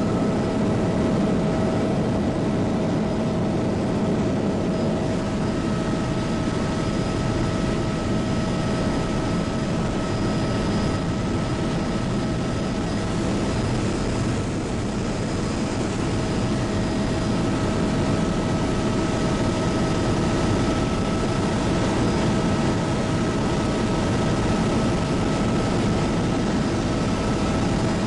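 Bell 206B JetRanger helicopter in steady cruise, heard from inside the cabin: a constant rumble from the rotor and Allison 250 turboshaft turbine, with a steady high whine on top.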